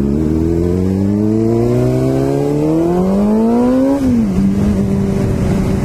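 Sport motorcycle engine accelerating, its pitch climbing steadily for about four seconds, then dropping sharply and holding steady.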